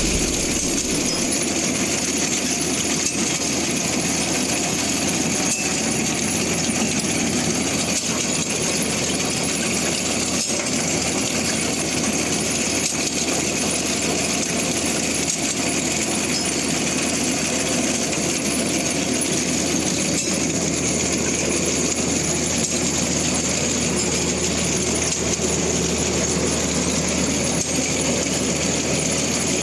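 Zetor Super 50 tractor's four-cylinder diesel engine running steadily, mixed with the working noise of the potato digger it is pulling.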